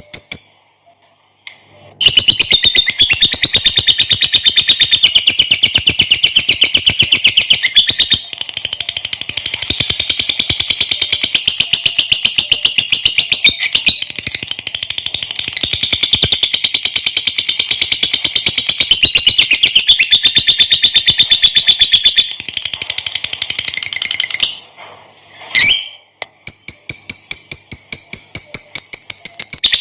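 Lovebird singing a long 'ngekek': a fast, unbroken chattering trill of sharp, high notes. It starts about two seconds in and runs for over twenty seconds. It breaks off briefly near the end, then starts again.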